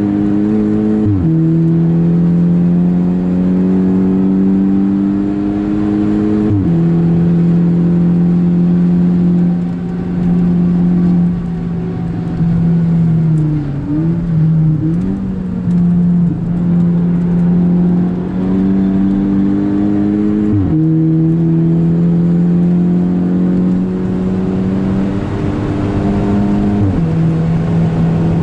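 VW Golf 5 GTI's turbocharged 2.0-litre four-cylinder engine running hard at high revs, heard from inside the cabin. Its pitch drops sharply four times as the driver shifts up, and dips and recovers once around the middle when the throttle is eased and reapplied.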